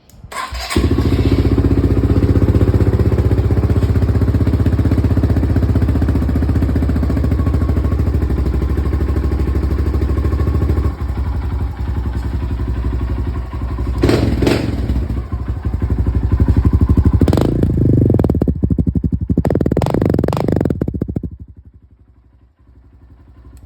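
Honda CRF125 dirt bike's single-cylinder four-stroke engine cold-started: it catches about a second in and idles steadily. From about halfway it is revved several times, and it shuts off a couple of seconds before the end.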